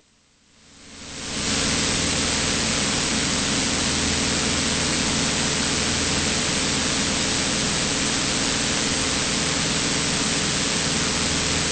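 Steady in-flight cockpit noise of a Cessna 182: a constant hiss of airflow over a steady drone from the piston engine and propeller. It fades in from silence during the first second or so, then holds level.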